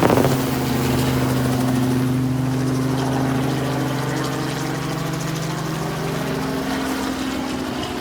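Crop-spraying helicopter flying away just after passing low overhead, its rotor and engine making a steady droning hum. The pitch drops right at the start as it goes past, and the sound slowly fades.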